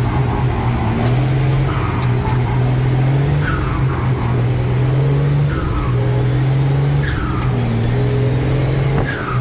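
Truck engine running under way, its steady note breaking off and picking up again several times, each time with a short falling whine.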